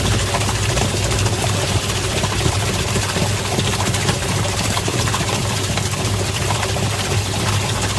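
Twin-tub washing machine's wash tub running: a steady motor hum under water swirling and churning in the tub.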